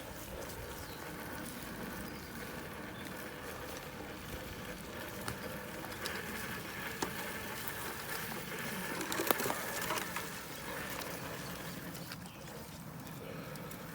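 Traxxas TRX-4 RC crawler driving over trail terrain: its electric motor and gearbox whining steadily, a little louder around the middle, with scattered clicks and knocks from the tyres and the towed trailer's load.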